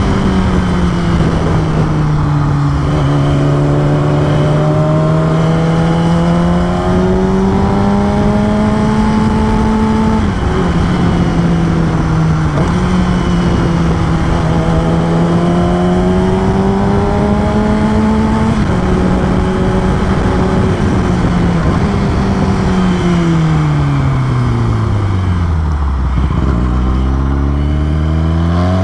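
2013 Yamaha R6's 600 cc inline-four engine under way at moderate revs, the note climbing slowly and dropping at each gear change. About three-quarters through the revs fall away to a low drone as the bike slows, then rise again near the end. A steady rush of road and wind noise runs beneath.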